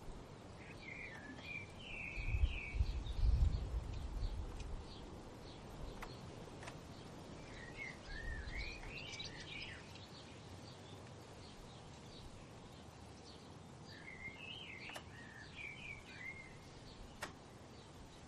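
A songbird singing a warbling phrase three times, several seconds apart, over faint, rapidly repeated high chirps. A low rumble, like wind, swells about two seconds in and fades out a couple of seconds later.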